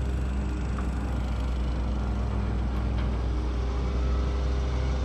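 A steady, low motor hum at an even level.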